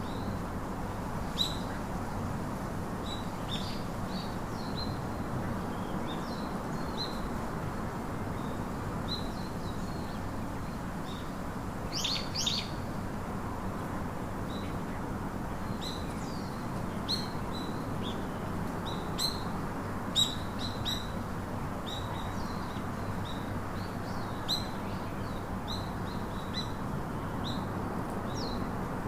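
Small birds chirping: short, high, scattered chirps, some in quick clusters about twelve seconds in and around twenty seconds in, over a steady low background hiss.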